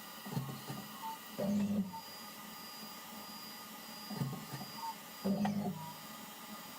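Haas CNC mill axes moving in short jogs during work-offset probing. Brief motor hums start and stop several times over a steady machine hum, with a few short high beeps.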